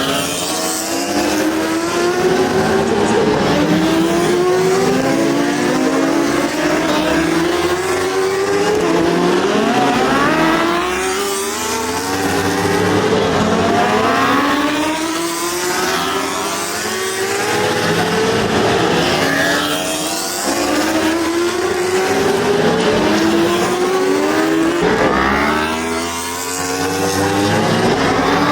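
Racing superbike engines accelerating hard, several bikes together, their pitch climbing and dropping back again and again as they shift up through the gears.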